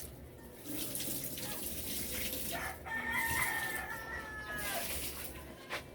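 One drawn-out bird call lasting nearly two seconds, starting about halfway through, over a steady hiss.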